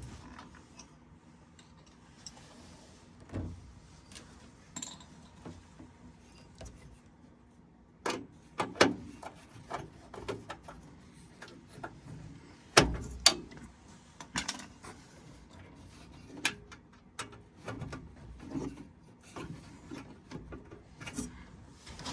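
Hand tools and metal furnace parts being handled: irregular clicks, taps and rattles, with a pair of sharper knocks just past the middle, over a faint steady hum.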